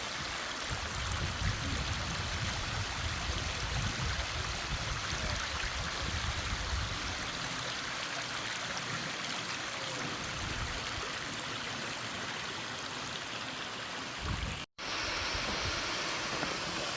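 Steady rush of flowing water from a stream and its waterfalls, with a low rumble underneath for the first half. The sound cuts out for an instant about 15 seconds in and then carries on.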